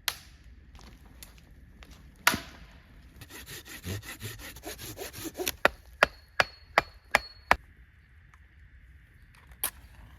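Wood being cut for a fire: a loud crack, then a couple of seconds of quick rasping strokes like sawing, then six sharp wooden cracks about half a second apart and one more crack near the end.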